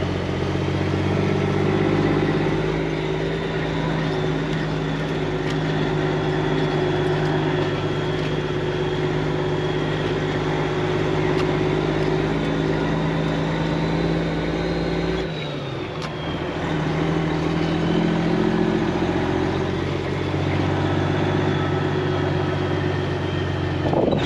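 Semi-truck diesel engine running steadily, heard from the cab while driving. About fifteen seconds in the engine note falls and dips in level, with a faint high whine falling with it, then the engine picks back up.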